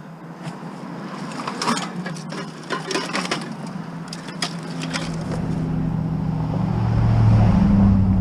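Scattered knocks and clatter, then from about five seconds in a low vehicle engine hum that grows steadily louder.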